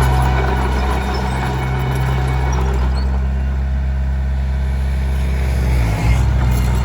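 Small Komatsu D21P crawler bulldozer's diesel engine running steadily under work. Its low hum dips and shifts briefly about six seconds in.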